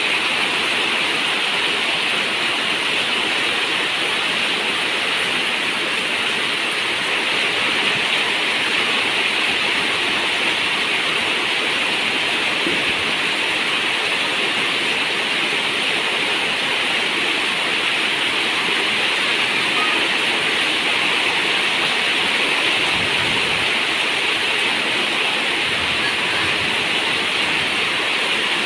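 Steady rain falling on a zinc roof, a dense, even hiss of water that does not let up.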